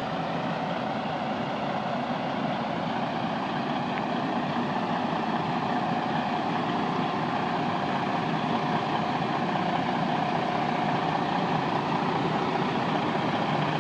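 Detroit Diesel DD15 inline-six diesel of a 2010 Freightliner Cascadia idling steadily.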